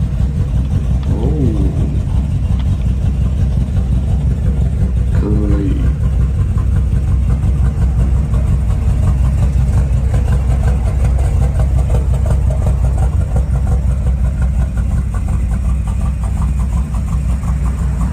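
Muscle car engine running near idle, a steady deep rumble.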